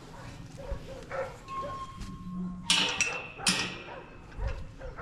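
Dogs barking, with two loud sharp barks about three seconds in, under a second apart, and softer barking around them.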